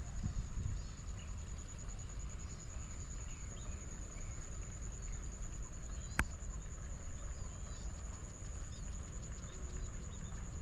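Outdoor ambience: an insect, such as a cricket, trills steadily at a high pitch while birds give scattered short chirps over a low rumble. A single sharp click comes about six seconds in.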